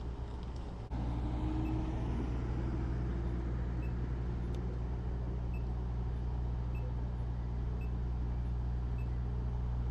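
A motor vehicle's engine idling with a steady low hum, breaking off briefly just under a second in and then carrying on evenly.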